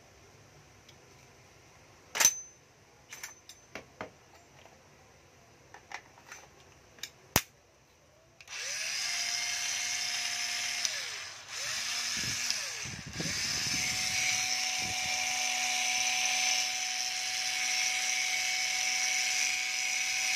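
A few handling clicks and knocks, then a Makita 7.2V cordless drill/driver's motor spinning up to a steady whine. It stops after about two and a half seconds, gives a short burst, then runs steadily for about seven seconds, its pitch falling off as it stops.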